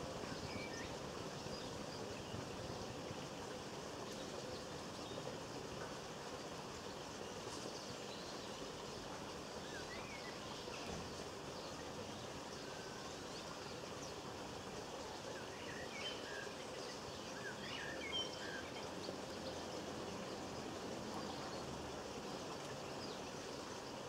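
Faint, scattered chirps of small garden birds over a steady outdoor background hiss, the chirps clustering about two-thirds of the way through.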